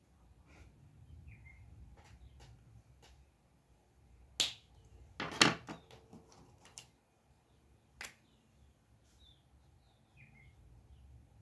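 A few sharp clicks and knocks: one about four seconds in, a quick cluster of several about five seconds in that is the loudest, and one more near the eight-second mark. Faint short bird chirps sound now and then behind them.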